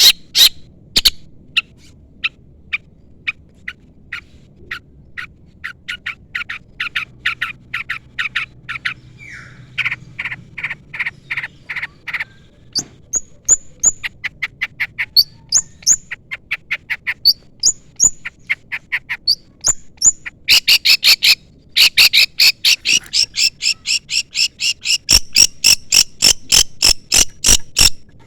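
Long-tailed shrike (cendet) singing a lively song: series of short, sharp, repeated chips, short rising whistled notes from about halfway, then a fast, dense run of notes in the last several seconds.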